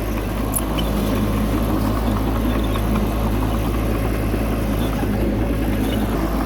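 Bulldozer's diesel engine running at a steady speed.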